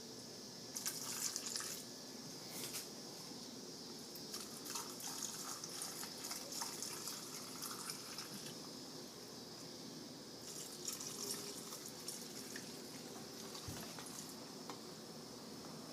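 Pickling brine being poured into glass mason jars packed with cucumbers and dill: a steady splashing trickle of liquid, with scattered small clicks.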